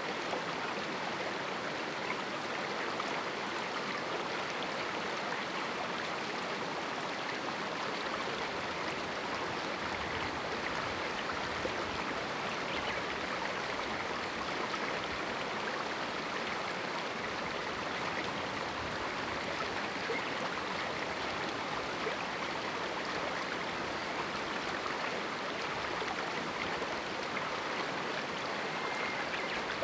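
Mountain river running through a small rocky canyon: a steady, even rush of flowing water.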